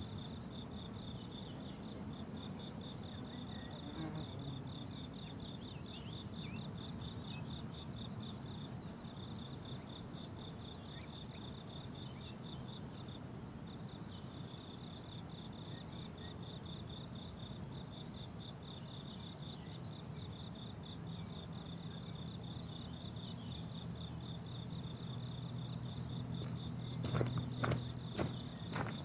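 A chorus of crickets chirping in fast, even pulses, with several insects at two slightly different pitches.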